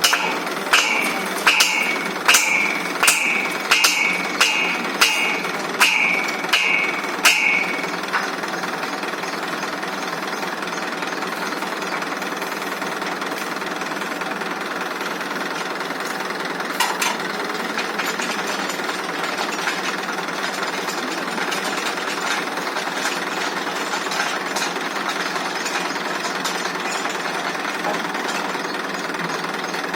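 A quick series of about ten ringing hammer blows on metal, roughly three every two seconds, stopping about seven seconds in. Under them a tractor engine runs steadily the whole time.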